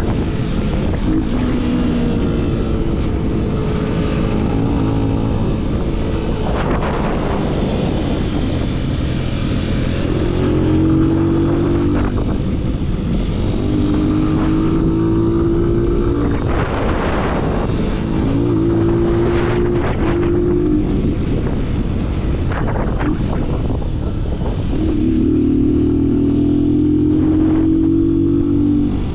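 Yamaha MT-07's parallel-twin engine through an aftermarket full-system exhaust, pulling hard through several gears: the engine note climbs and breaks off sharply at each gear change, again and again. Wind rushes over the microphone throughout.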